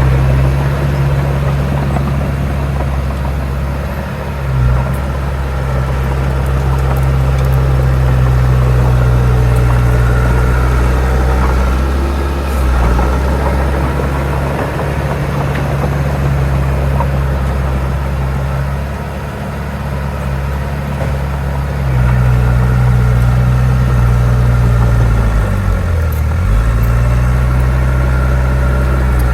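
Heavy diesel engine of earthmoving machinery running steadily under work; its pitch sags briefly near the end and then picks back up.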